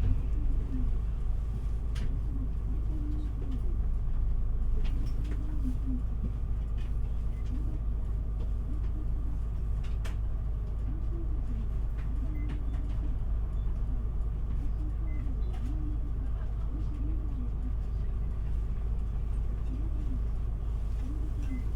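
Interior of an Isuzu Erga city bus: steady engine and running rumble, with a faint short low hooting tone repeating every couple of seconds and a few light clicks.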